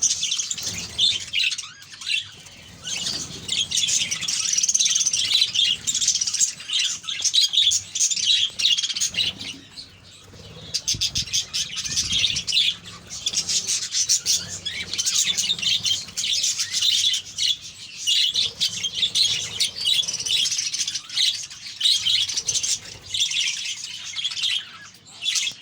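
A colony of budgerigars chattering and chirping, many high calls overlapping almost without pause.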